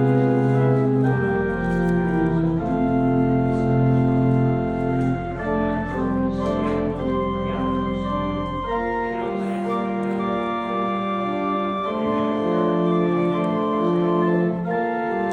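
Organ playing the closing postlude: sustained chords over a deep held bass that drops out about nine seconds in, leaving the upper voices moving on.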